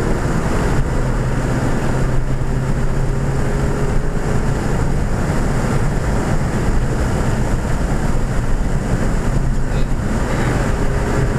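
2014 Ford Fiesta ST's turbocharged 1.6-litre four-cylinder engine pulling at speed on a race track, its drone holding a steady pitch, heard from inside the cabin over road and wind noise.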